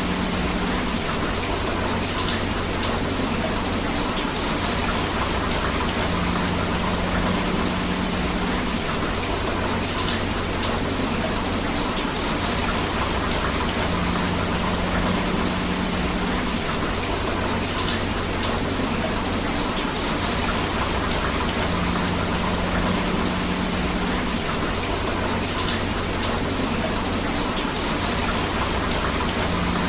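Steady rain and flowing river water, an unbroken rushing hiss. A low hum fades in and out about every eight seconds beneath it.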